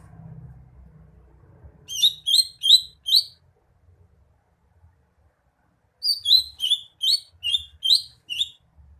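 A cucak hijau (green leafbird) singing loudly in two phrases of sharp, repeated whistled notes: four quick notes about two seconds in, then a faster run of about eight notes from about six seconds in.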